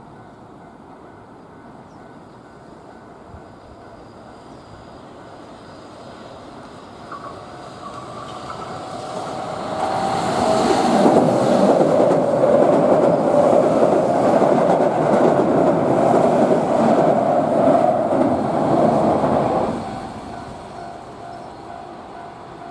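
Keihan 7200 series electric train running on the line. Its noise builds over several seconds into a loud rumble with wheel clatter, which lasts about ten seconds and then drops off sharply.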